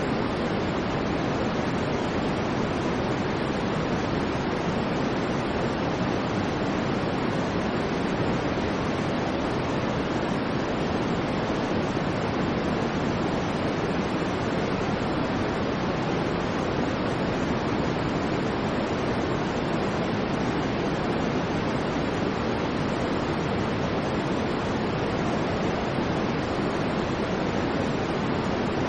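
Steady white noise: an unchanging hiss, fuller in the low and middle range than at the top, with no rise or fall.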